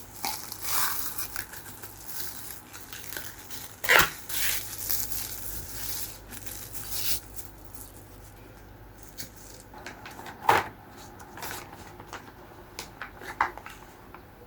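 Things being handled by hand: irregular rustling and crinkling, with a sharp knock about four seconds in and another about ten seconds in.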